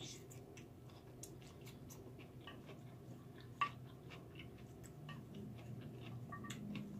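Faint close-up chewing with scattered small clicks from the mouth and a wooden spoon scooping in a glass bowl, and one sharper click about three and a half seconds in.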